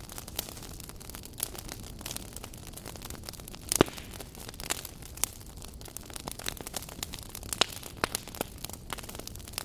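Wood fire burning in a fireplace: a low steady rush of flames with irregular sharp crackles and pops, one loud pop about four seconds in.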